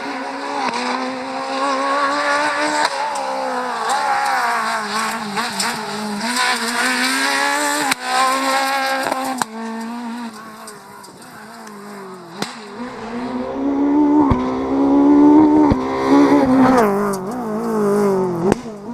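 Rally car engine revving hard along a stage, its pitch repeatedly rising and dropping as it accelerates and backs off. It grows loudest in the second half as the car comes close, then drops away sharply at the end.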